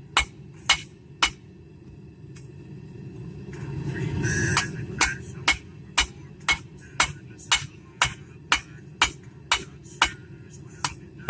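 Hand hammer striking a hot railroad spike on an anvil, sharp ringing blows about two a second as the metal is drawn out. The blows stop for a few seconds, during which a louder noise swells and fades, then resume at the same pace, over a steady low hum.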